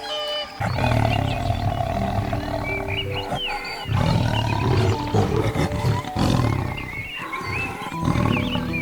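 Lion roaring: two long, low roars, the first starting about half a second in and lasting about three seconds, the second following straight after and lasting about as long.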